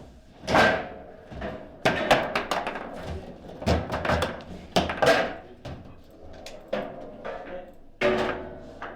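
Foosball play: a series of hard knocks and clacks as the ball is struck by the players and hits the table, the sharpest about half a second in, clustered between two and five seconds, and again near the end.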